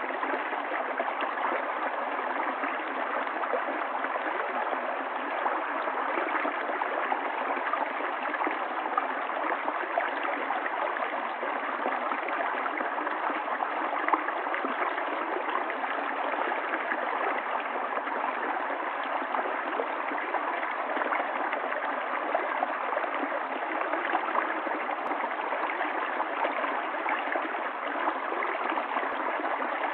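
Running water of a stream, flowing steadily and evenly with no pauses or changes, with no deep rumble.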